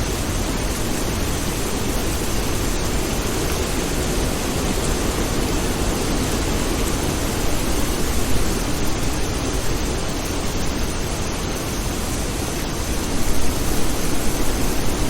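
Steady rain falling, an even hiss that swells slightly a couple of times.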